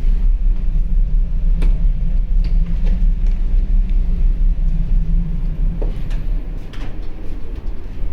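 Steady low rumble of a large car ferry underway, its engines and propellers driving the ship, with a few faint clicks.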